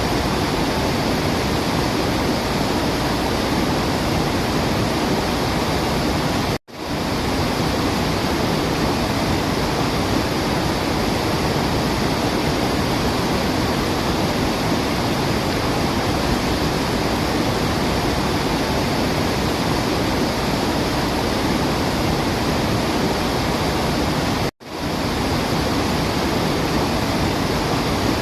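Waterfall: a steady, dense rush of falling water. Twice, about a quarter of the way in and near the end, it cuts out for a split second and fades back in, the joins of a looped recording.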